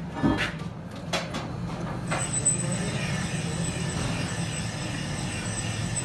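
Workshop machinery running with a steady hum, with a few knocks early on. A high whine and hiss join about two seconds in.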